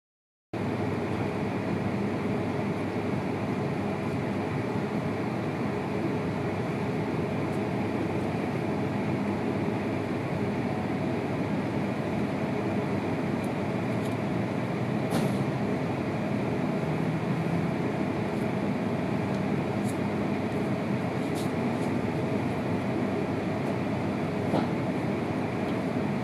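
Shinkansen passenger cabin noise as the train rolls slowly past station platforms: a steady rumble and hum of the running train, with a few brief faint clicks.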